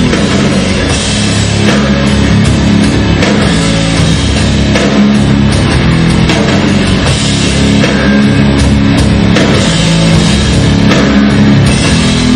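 Loud hard rock music: a full band with electric guitars, bass and a drum kit playing a steady beat.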